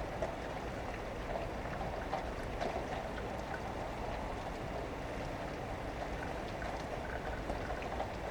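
Steady rain falling, heard through an open window, with scattered drops ticking close by.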